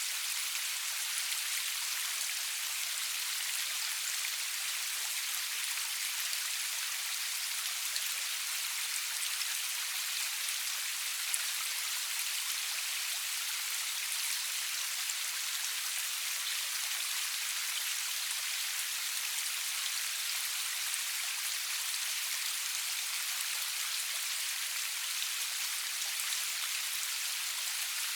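Steady rain falling: an even, high hiss with the fine patter of single drops, and no thunder.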